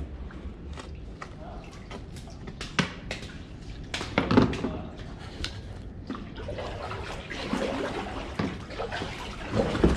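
Water splashing and sloshing around kayaks as they are paddled quickly, with scattered sharp knocks and splashes.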